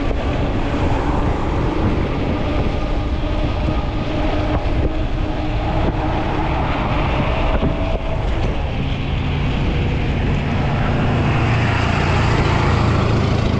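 Strong wind buffeting the microphone during a ride on a fat-tire e-bike, a constant rumbling roar that grows heavier about two-thirds of the way through.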